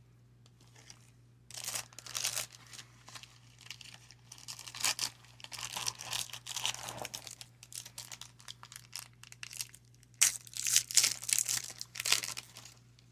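A baseball-card pack wrapper being torn open and crinkled by hand, in irregular bursts of ripping and rustling that start about a second and a half in and are loudest near the end.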